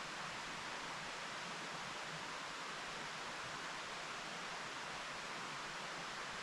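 Mountain stream flowing: a steady, even rush of running water with no breaks or distinct events.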